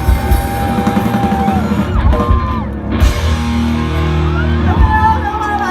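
Live rock band playing: electric guitar with long held lead notes over bass and drums.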